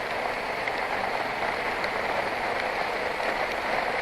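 Steady rushing of rain and wind at a motorcycle rider's helmet while riding in the rain on a wet road, with no clear engine note.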